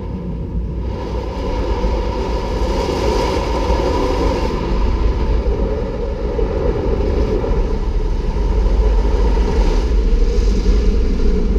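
Automatic car wash running, heard from inside the car: a steady rush of noise over a deep rumble, swelling up at the start, with brighter surges twice.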